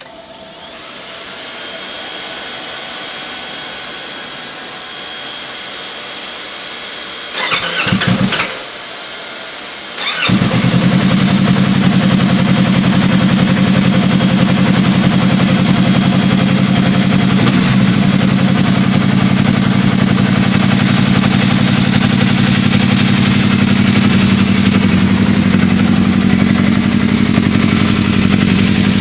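Yamaha YZF-R25/R3 parallel-twin fitted with an aftermarket slip-on exhaust: a brief loud burst about seven seconds in, then the engine starts about ten seconds in and settles into a loud, steady idle.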